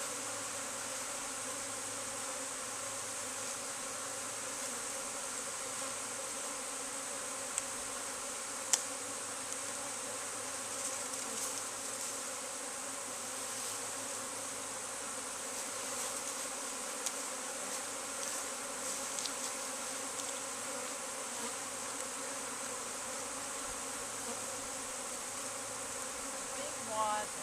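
Honeybee swarm buzzing: a steady massed hum of many bees, with a couple of small clicks about eight and nine seconds in.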